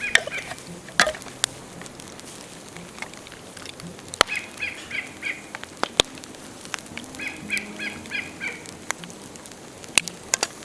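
Dead bamboo burning in a bonfire, giving out scattered sharp cracks and pops, the loudest about a second in and near the end. Between them a bird calls in two quick runs of repeated notes.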